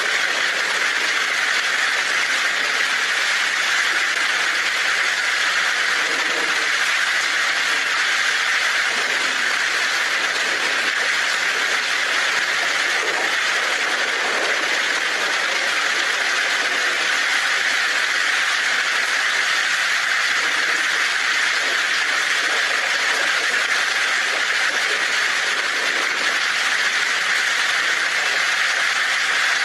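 Heavy rain drumming on a tin roof, a dense, steady hiss with no break.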